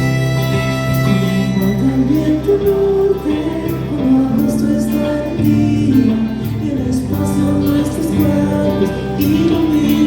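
Live rock band playing an instrumental passage: a held chord gives way, a second or so in, to a moving melodic lead line over a steady bass.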